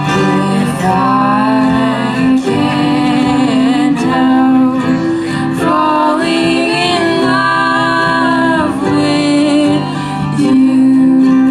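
A slow acoustic ballad: strummed acoustic guitar under long, held female singing.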